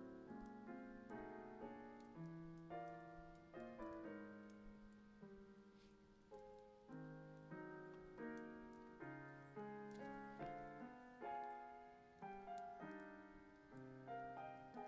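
Quiet background piano music: a gentle melody of single notes and chords, about two a second, each note struck and then fading.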